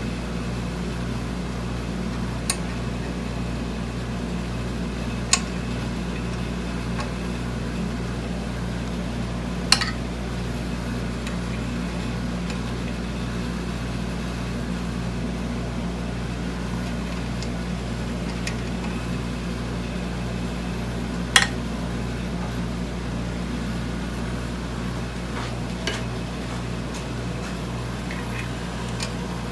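A steady machine hum, like a small motor or fan, with a few sharp clicks scattered through it.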